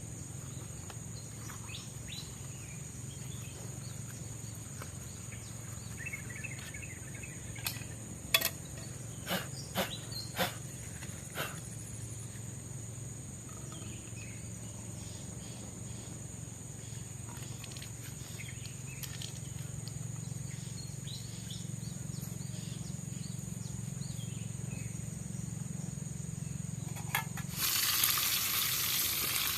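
Steady high drone of tropical forest insects, with a few sharp clicks and knocks of handling about a quarter of the way in. Near the end, hot oil suddenly starts sizzling loudly as fish goes into the pan to fry.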